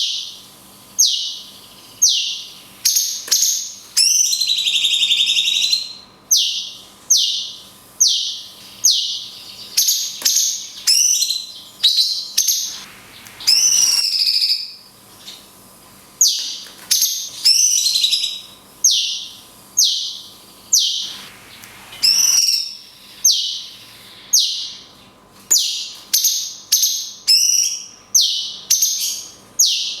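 Cucak cungkok singing: a long run of sharp, high, downward-sweeping notes, about one or two a second, broken several times by longer warbling phrases.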